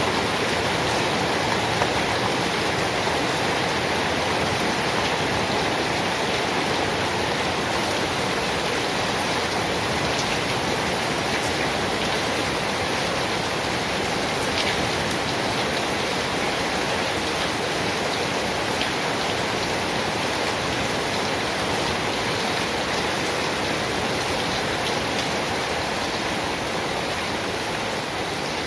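Steady heavy rain falling, a continuous even hiss with faint scattered drop ticks.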